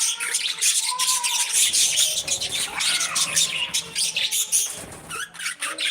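A flock of budgerigars chattering, with a continuous rapid run of high, scratchy chirps and warbles.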